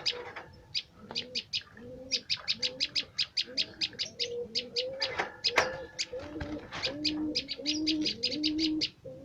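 Prenjak (prinias) giving fast runs of short, sharp high chirps, several a second. Underneath, a second bird gives low, rising-and-falling cooing notes, starting about a second and a half in and getting stronger in the second half.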